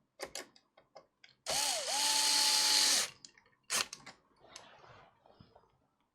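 A small motorised tool runs for about a second and a half: a hissing rush with a whine that dips and then holds steady, cutting off suddenly. Light clicks and taps come before and after it.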